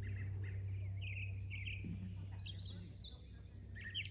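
Songbirds chirping, a run of short rapid chirps and quick whistled glides, over a steady low hum.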